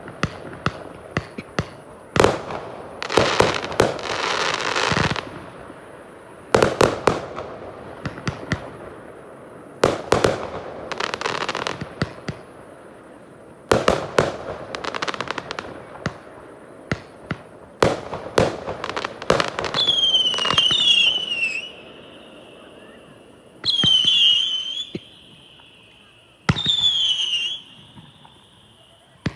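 Fireworks display: repeated sharp bangs and stretches of crackling bursts. Three short, high, wavering whistles come about three seconds apart in the last third.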